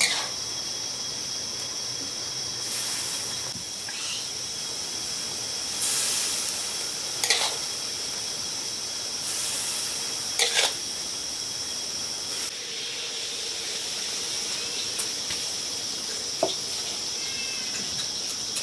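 Food frying in a pan, its sizzle swelling in short hissing spells, with a few sharp clinks of a utensil against the pan. Under it runs a steady high-pitched insect drone.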